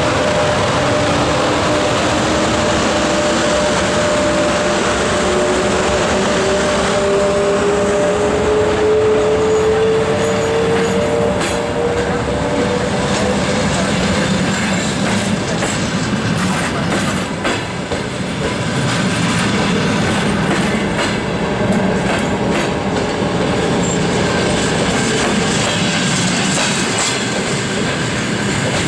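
Passenger train pulling out and rolling past, its wheels clicking over rail joints and points, more and more often in the second half. Over the first half a whine rises steadily in pitch as the train gathers speed.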